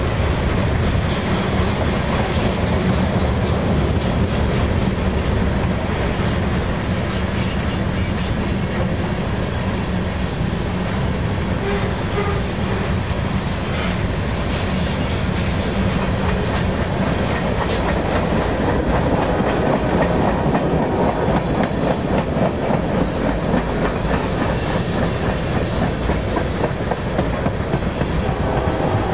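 Freight cars of a passing train rolling by at steady speed, a continuous rumble with the wheels clicking over the rail joints.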